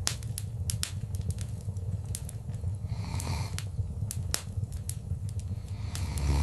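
Wood fire crackling in a fireplace: irregular sharp pops and snaps, several a second, over a steady low rumble of the burning fire, with a denser cluster of pops about three seconds in.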